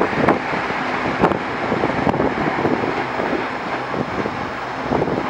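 Taiwan Railways TEMU2000 Puyuma tilting electric train running along the track, a steady rumble of wheels on rail broken by scattered sharp clicks. Wind buffets the microphone throughout.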